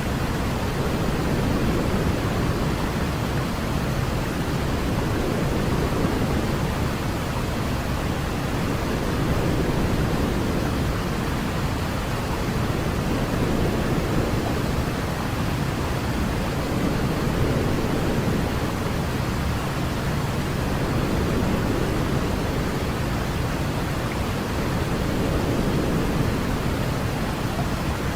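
Steady white-noise sleep sound, a rushing hiss weighted toward the low end, with slow, gentle swells every few seconds.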